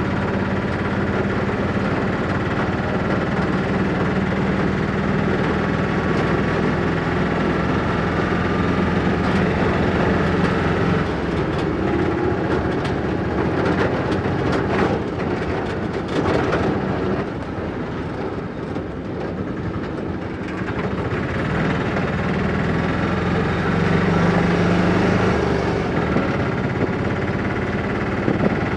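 Motorcycle engine running steadily while under way, easing off briefly a little past the middle, with scattered clicks and rattles.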